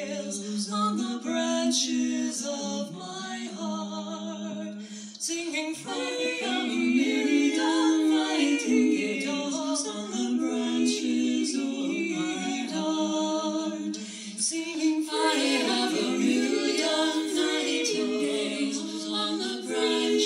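A small group of women singing a cappella in harmony, with several voices holding chords that shift from note to note.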